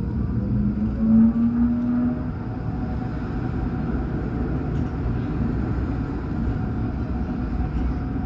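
A 2007 Alstom NGT8D low-floor tram under way. For about the first two seconds the traction drive whines in slowly rising tones as the tram pulls, then the whine cuts out, leaving a steady low rumble of the running gear on the track.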